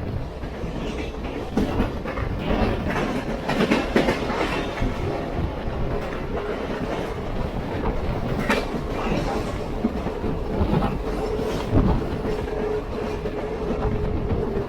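Passenger railroad car rolling along the track, heard from its open-air rear balcony: a steady rumble of wheels on rail with irregular clicks and knocks over the joints. A steady high tone joins about nine seconds in.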